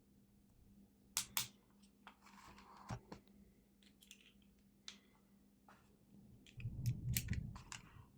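Sharp clicks and scrapes of small plastic parts and a tool being handled while the shaver is worked apart. A scratchy scrape comes about two seconds in, and a burst of rubbing and knocking near the end.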